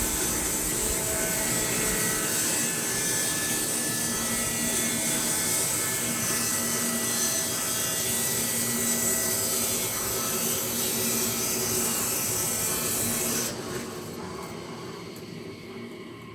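Woodlands Mills HM126 bandsaw mill running and sawing through a log, a steady loud engine-and-blade noise. About three seconds before the end the sound drops sharply, then keeps fading.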